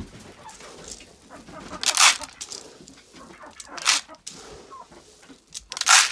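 Chickens clucking in a coop, broken by three loud, brief scuffing noises about two seconds apart.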